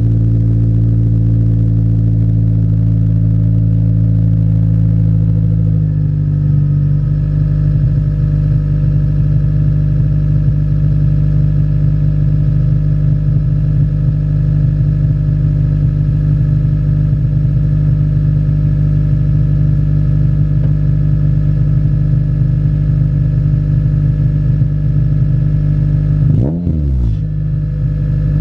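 K24/K20-swapped Honda Civic's four-cylinder engine running through a Skunk2 70 mm exhaust with a gutted catalytic converter, holding a steady engine speed with a loud, even exhaust drone. Its pitch steps to a new steady note about six seconds in, and dips and rises again quickly near the end.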